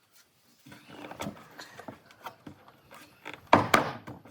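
A run of short knocks and clicks, with two loud knocks close together near the end.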